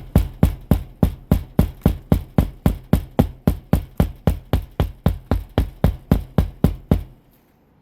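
Hand hammer driving roofing nails into a shingle with quick, even blows, about four a second, which stop near the end.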